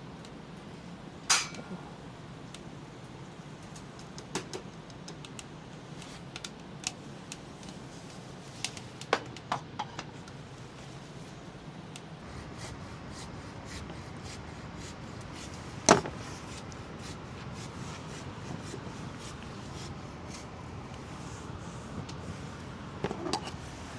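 Scattered sharp clicks and knocks of cups, kettle and utensils being handled while tea is made, over a steady low hiss. The loudest knock comes about 16 seconds in.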